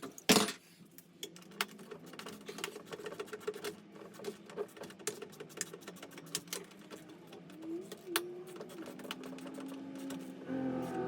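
Upholstery sewing machine stitching in short runs: a steady motor hum under rapid, uneven needle clicks, opening with one sharp clack.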